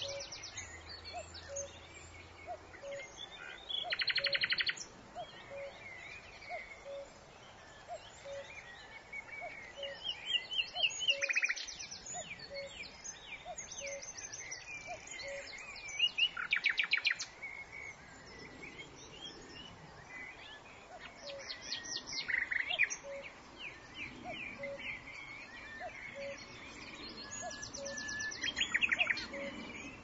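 Birds calling: a fast trill of rapid high notes comes back about every five or six seconds, with softer chirps between. A faint regular tick runs underneath, about three every two seconds.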